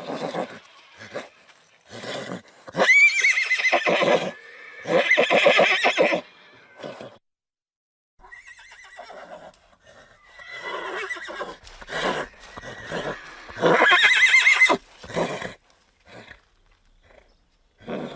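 Horses whinnying: several loud, quavering neighs, the strongest about three seconds in, five seconds in and fourteen seconds in. Shorter calls come between them, with a brief silent gap about seven seconds in.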